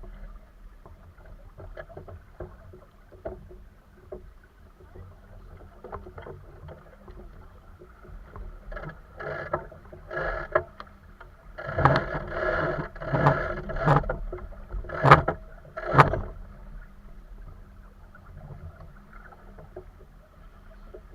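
Sounds aboard a small sailboat on the water: a steady low background with water against the hull, then, in the middle, a cluster of louder splashes and knocks.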